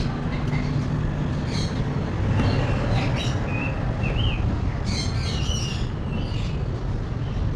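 Birds chirping in short calls several times, a few of them rising in pitch, over a steady low rumble.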